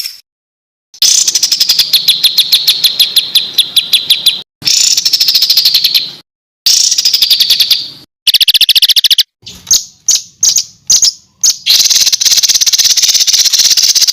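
Songbird song for masteran training: loud bursts of rapid-fire, harsh repeated notes and trills, with a stretch of separate sharp chips in the middle. The bursts are spliced together with sudden silent gaps between them.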